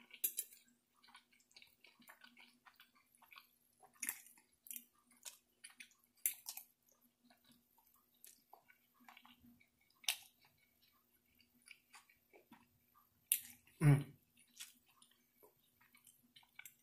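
Close-up chewing of roast beef, mashed potatoes and green beans: soft mouth sounds with scattered sharp clicks, and a short hummed sound about fourteen seconds in.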